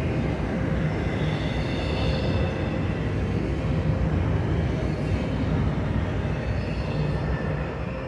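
Double-stack intermodal well cars rolling past on steel rails, a steady rumble of wheels and rail joints with faint high wheel squeal at times. It eases off a little near the end as the last cars go by.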